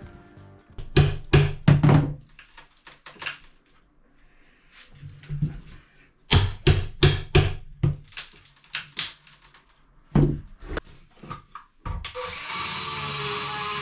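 Hammer blows in quick bursts of several strikes each, three bursts in all. Near the end a power tool starts up and runs with a steady noise.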